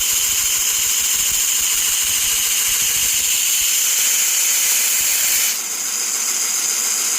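Bucktool variable-speed 2-inch belt grinder with a 60-grit ceramic belt grinding the edge of a steel hedge trimmer blade, raising a burr: a steady, loud hiss of steel on the running belt. About five and a half seconds in the grinding thins and drops a little, and the belt keeps running.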